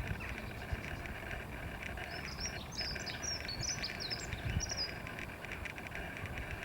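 Small birds chirping: a quick run of short, high chirps in the middle, over a steady outdoor background hiss with low rumbles.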